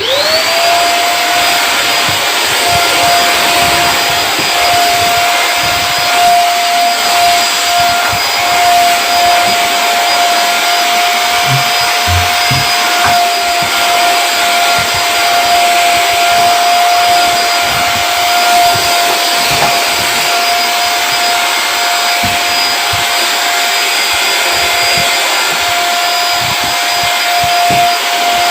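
Pensonic vacuum cleaner switched on, its motor spinning up in about half a second, then running steadily with a loud rushing of air and a high whine.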